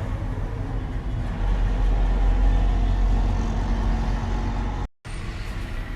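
Heavy vehicle engine running steadily with a low hum that grows louder about a second and a half in, broken by a sudden brief cut near the end.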